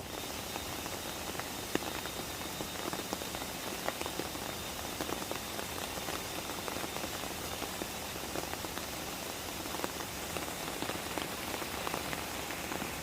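Steady rain falling on a surface: a continuous hiss thick with random drop ticks.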